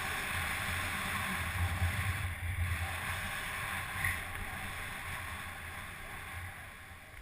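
Wind buffeting the microphone: a steady rush with an uneven low rumble that fades toward the end.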